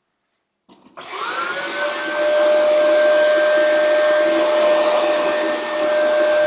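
Shark NV752 Rotator upright vacuum switched on about a second in: the motor's whine rises and settles on a steady pitch within a second, then it runs steadily and loudly with the rush of its suction airflow.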